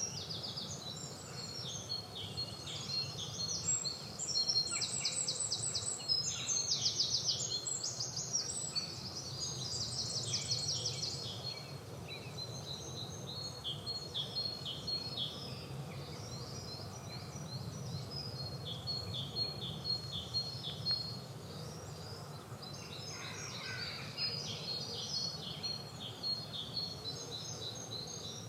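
Several garden birds singing at once in a spring chorus: overlapping trills, rapid runs and repeated high notes. The song is busiest and loudest in the first dozen seconds, and a steady low rumble runs underneath.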